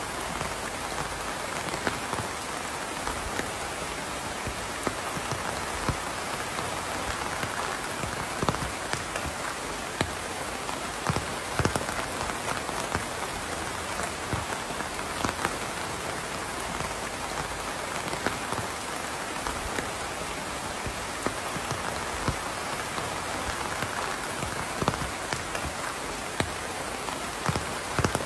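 Steady rain falling on a surface, an even hiss with frequent louder individual drops and drips scattered through it.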